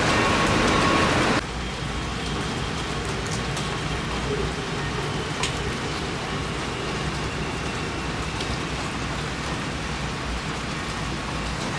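Rain falling, a steady hiss of rain with scattered drips ticking on surfaces. A louder, fuller rush cuts off suddenly about a second and a half in, leaving the softer rain.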